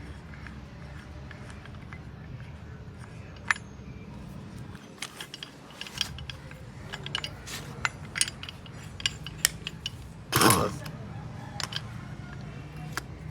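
Metal hand tools clicking and clinking in irregular taps as a mechanic works on a car's engine mount, over a steady low hum.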